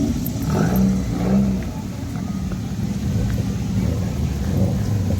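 A car engine running nearby, steady and low-pitched, with faint voices over it in the first second or so.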